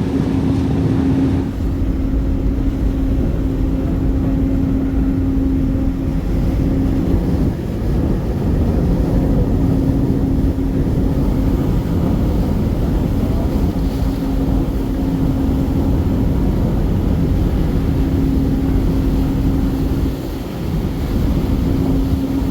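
Loud, steady running noise of a high-speed car ferry's engines: a deep rumble under a steady hum that drops out briefly a few times.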